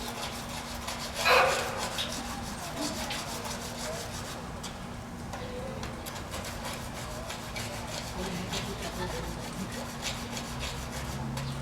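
A rasp filing an Asian elephant's toenails during foot care: a run of repeated scraping strokes, with one brief louder sound about a second in.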